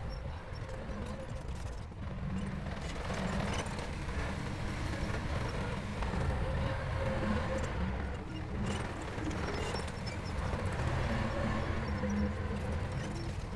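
Heavy diesel construction machinery running steadily under load, with a low engine note and occasional faint metallic clanks.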